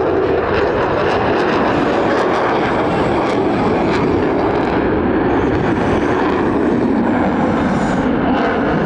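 Loud, steady jet roar from the F-22 Raptor's twin Pratt & Whitney F119 afterburning turbofans as the fighter flies its demonstration. The roar deepens a little past the middle and rises again near the end.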